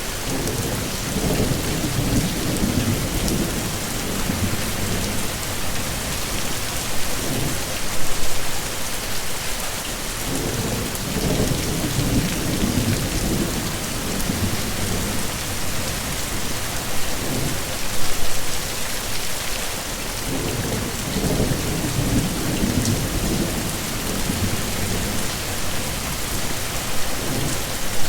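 Heavy, steady rain pouring down, with rolling thunder rumbling low in the background three times, each roll swelling and fading over a few seconds.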